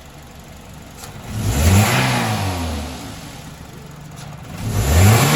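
Toyota Corolla GLi car engine idling and being revved twice, each rev rising quickly and then falling back to idle.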